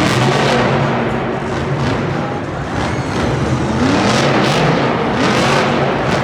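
Monster truck engine revving hard, its pitch climbing and dropping several times in quick succession.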